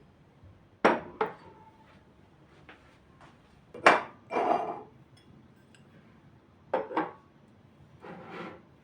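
Kitchen handling sounds: hard objects set down with sharp knocks and clinks, five in all, with short scrapes and rubs between them.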